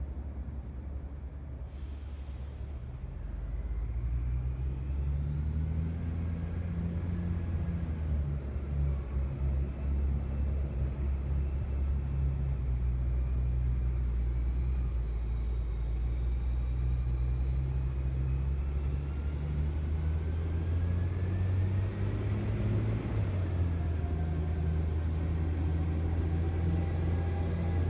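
Truck engine running, building up about three seconds in to a steady low drone, with a faint whine that rises and falls in pitch over it.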